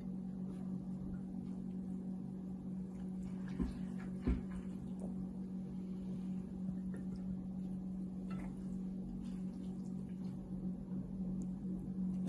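Steady low electrical hum, with a few faint clicks or taps about three to four seconds in.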